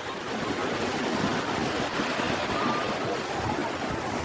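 Sea waves washing in as a steady surf, with wind on the microphone.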